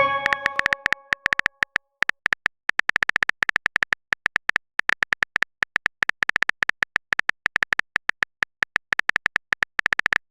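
A short electronic message chime fading out over about a second and a half, then a fast, irregular run of keyboard typing clicks from a chat-app sound effect.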